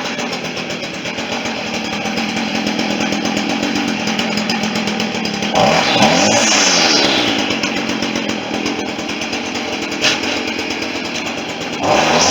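Stihl FS40C string trimmer's small two-stroke engine running at idle, revved up briefly about halfway through and again near the end, the pitch rising and falling each time, while its carburetor is being tweaked during a tune-up.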